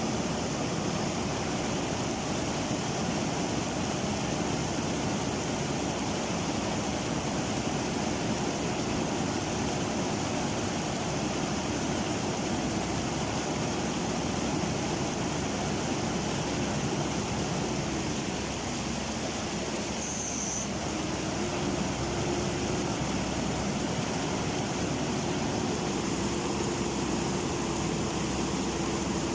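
Steady roar of a swollen, flooded river rushing past, with the faint, even engine note of a JCB running under it that shifts slightly in pitch about two-thirds of the way through.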